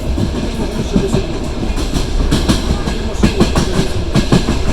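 Passenger train carriage rolling along the track, heard from aboard: a steady low rumble with the wheels clacking over rail joints, the clacks coming thick and fast in the second half.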